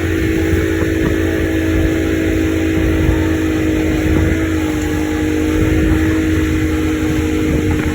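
Tow boat's engine running steadily at speed, a constant drone that eases slightly lower in pitch about halfway through, over a steady rushing noise.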